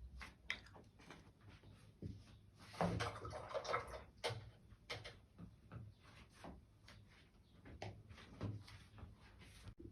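Faint clicks, taps and scraping of a paintbrush mixing Chinese painting colour on a palette dish, with a short rustling stretch about three seconds in.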